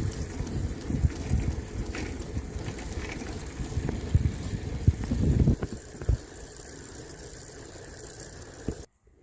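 Wind buffeting the microphone, with bumps and rattles from a bicycle being ridden. The noise eases a little after about five and a half seconds and cuts off suddenly just before the end.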